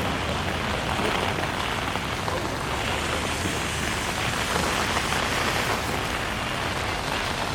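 Heavy rain falling on a city street: a steady, even hiss of rain with a dense patter of drops.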